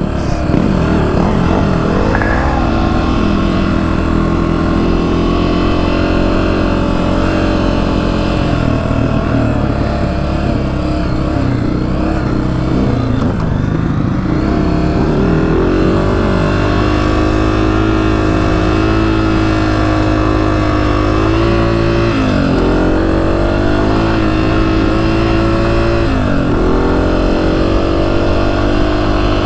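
Honda CRF250F dirt bike's single-cylinder four-stroke engine running under way, the throttle rising and falling; twice in the last third its pitch drops sharply and climbs again.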